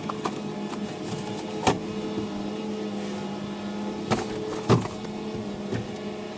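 Steady engine hum heard from inside a moving vehicle, with three sharp knocks or rattles: one a little under two seconds in and two close together past the four-second mark.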